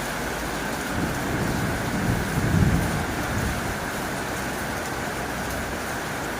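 Heavy rain drumming steadily on a tin roof. A low rumble swells about a second in, is loudest in the middle, and fades away.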